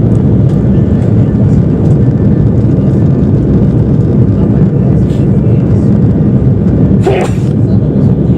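Steady, loud rumble of a passenger airliner in flight, engine and airflow noise heard from inside the cabin. A brief, sharper sound cuts through about seven seconds in.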